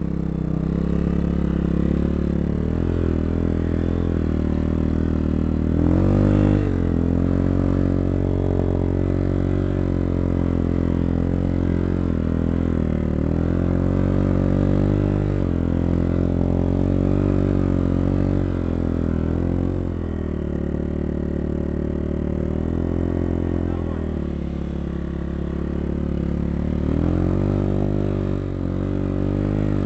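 250 cc dirt bike engine running under way, its revs repeatedly rising and falling as the rider accelerates, shifts and eases off.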